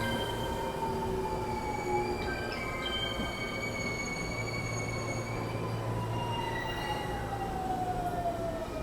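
Japanese electric rapid train running, a steady rumble under several high whining tones that fall slowly in pitch as the train slows.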